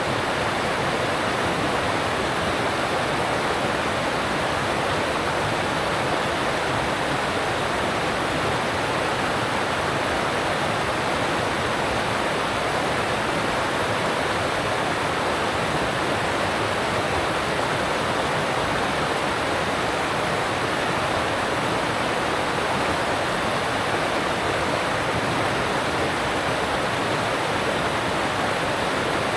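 Alpine mountain stream rushing over rocks, a steady, unbroken sound of water.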